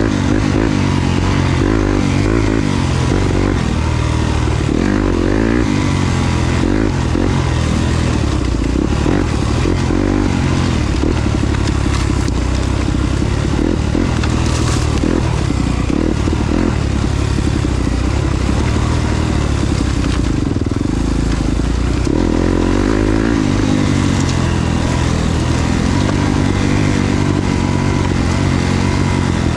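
Yamaha YZ250FX dirt bike's 250 cc four-stroke single-cylinder engine under way off-road, its revs rising and falling constantly as the throttle is worked.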